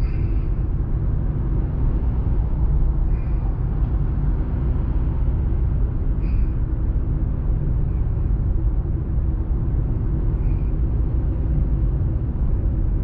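Steady low rumble of a car driving, heard from inside the cabin, with several faint, short high tones a few seconds apart.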